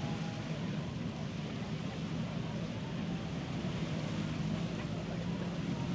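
Steady low engine hum over a wash of surf and wind noise, with faint voices in the background.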